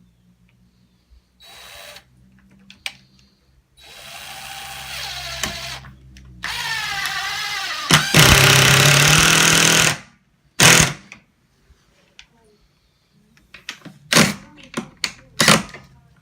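Power drill driving screws into a window frame in several bursts, the longest and loudest about six to ten seconds in, its motor pitch wavering as the trigger is worked and then running steady. A few sharp clicks and knocks follow near the end.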